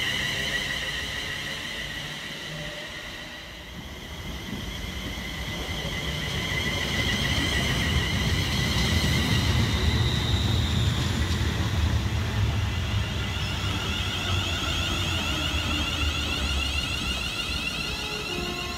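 A London Northwestern Railway electric multiple unit passing through the station at speed. The rumble of wheels on rail builds from a few seconds in, is loudest around the middle, then eases off. A high electric whine runs over it and grows stronger in the second half.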